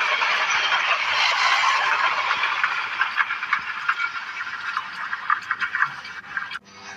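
VLT light-rail train running on the track: a rushing wheel-on-rail noise with short squeals and rattles, fading away, then cut off suddenly near the end.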